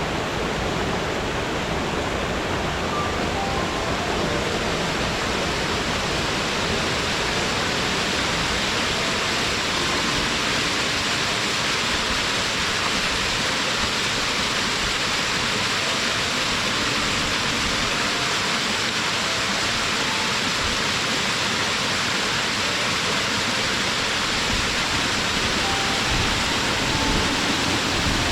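Waterfall: a steady, unbroken rush of falling water, its hiss strongest in the upper range.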